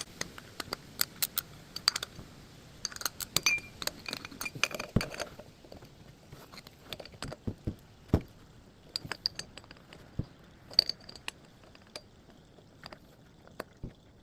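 Hand tools and metal parts clinking and clicking irregularly during work on the oil filter. The clicks come thickest in the first five seconds, then come sparser, with a few louder knocks.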